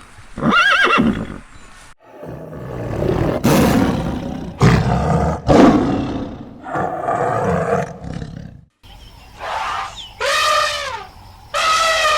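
A run of animal calls: a short pitched call near the start, then several seconds of loud, rough calls one after another. After a brief break come two calls that fall in pitch.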